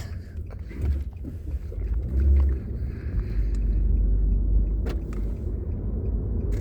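Car driving, heard from inside the cabin: a steady low road and engine rumble, with a sharp click about five seconds in.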